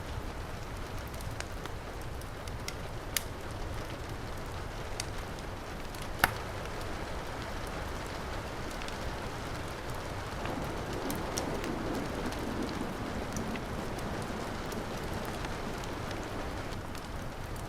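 Heavy rain falling steadily, mixed with a wood fire crackling: scattered sharp pops, a loud one about six seconds in. The rain swells slightly a little past the middle.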